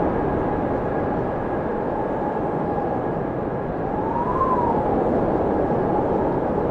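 Blizzard wind rushing steadily, with a whistling howl that rises and falls in pitch about four seconds in.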